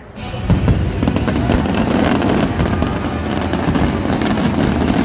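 Fireworks display: many bangs and crackles in quick succession, overlapping into a steady barrage, starting suddenly just after the start.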